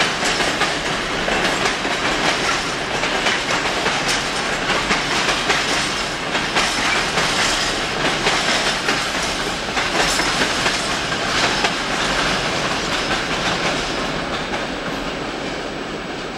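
Train rolling along the tracks, its wheels clattering over the rails in a steady clickety-clack, growing fainter over the last few seconds as it moves away.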